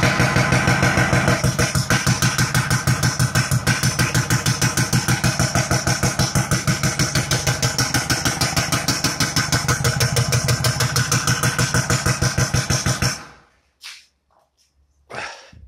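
Kia Sportage 2.0 CRDi diesel engine running with a hose pulled off the manifold, making a loud, fast, even pulsing rattle like a machine gun, the engine knock being diagnosed. It cuts off about 13 seconds in.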